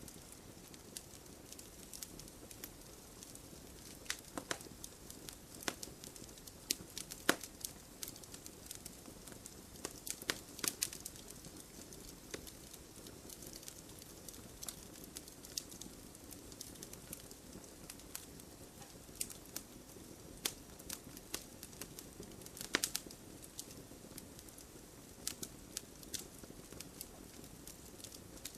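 Wood campfire crackling: irregular sharp pops and snaps, some in quick clusters, over a steady low rush of burning.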